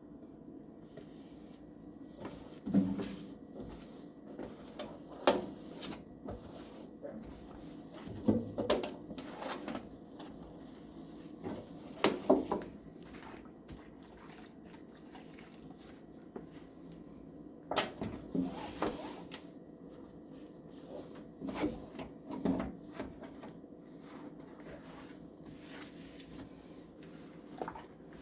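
Wiping out the inside of a microwave: a cloth rubbing over the cavity, with irregular clusters of knocks and bumps against the microwave every few seconds.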